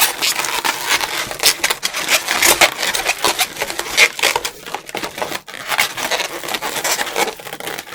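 Latex modelling balloons rubbing and crackling against each other in the hands as they are twisted and fitted together, a dense run of short scratchy crackles.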